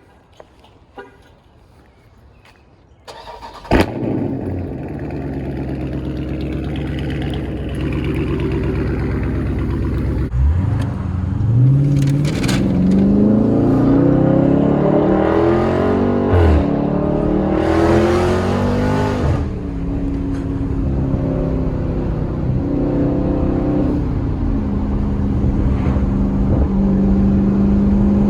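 2019 Dodge Charger Scat Pack's 392 HEMI V8 with a mid-muffler delete, loud exhaust, being started: a brief crank, then it fires with a sharp flare about four seconds in and settles to a rumbling idle. From about ten seconds in, the engine's pitch climbs and falls several times before holding steady.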